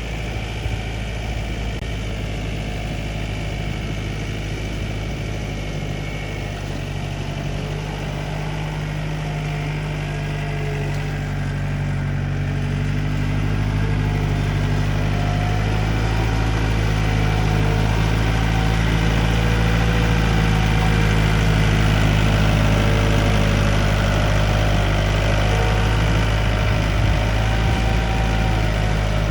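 Yanmar 72 hp tractor's diesel engine running steadily while working a field, growing louder about halfway through.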